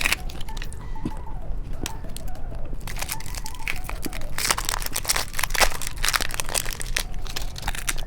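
Plastic candy wrapper crinkling and tearing as a wrapped chocolate is opened by hand, with dense sharp crackles from about three seconds in.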